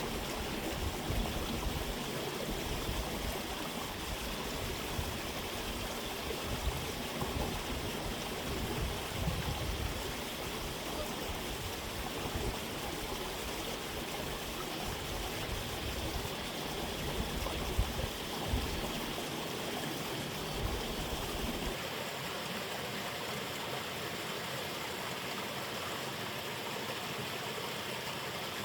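Steady rushing of a flowing stream. A low, uneven rumble underneath stops about three-quarters of the way through.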